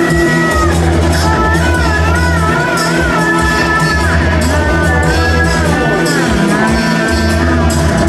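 A rock band playing loudly, with heavy sustained bass notes under a wavering lead melody, sung or played on guitar.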